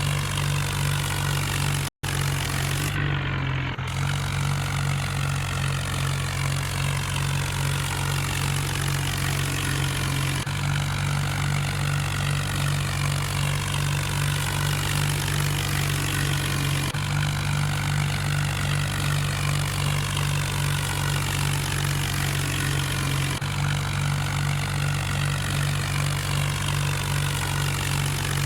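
Tractor engine running steadily at a constant speed, with a few abrupt joins.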